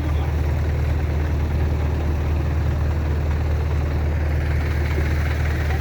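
Heavy vehicle engine idling steadily, a low, even drone.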